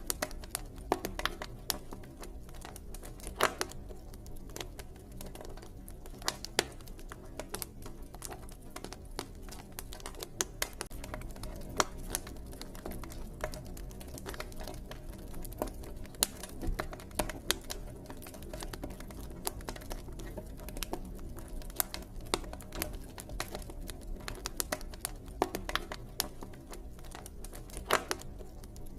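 Campfire crackling: wood burning with irregular small snaps and ticks and a few louder pops, over a steady low rumble.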